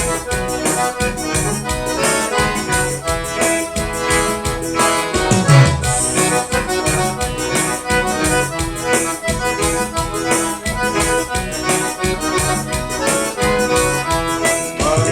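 Live forró band playing the instrumental opening of a song: accordion melody over a steady percussion beat, with no singing yet.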